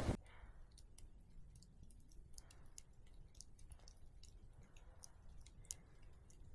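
Faint, irregular small clicks, several a second, over an almost silent background, with a few soft swells of hiss.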